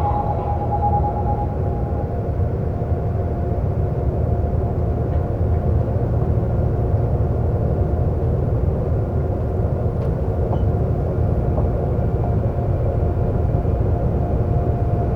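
Seoul subway train in motion: a steady rumble of wheels and running gear, with a faint steady whine. A higher tone fades out about a second or two in.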